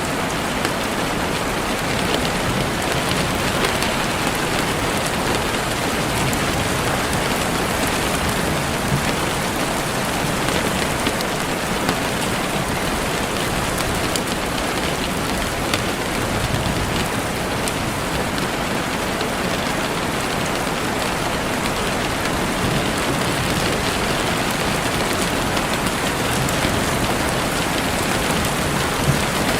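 Heavy rain falling steadily, a dense even hiss with many individual drops pattering on leaves and ground.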